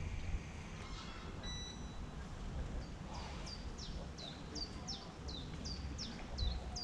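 A bird calling over and over in a steady run of short falling whistles, about three a second, beginning about halfway through. A steady low wind rumble on the microphone lies beneath it.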